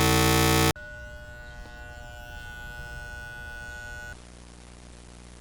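A loud distorted electronic scare sting cuts off abruptly under a second in, leaving a steady low hum with held tones that drops quieter about four seconds in.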